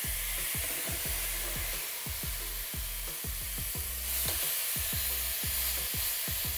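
Chunks of beef chuck searing in a hot pot, sizzling steadily as they are turned with silicone tongs to brown the other side.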